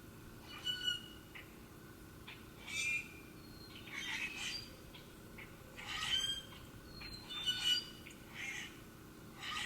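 Wild birds calling: a series of short, harsh, squawking calls about every second or so, mixed with a few thin whistled notes.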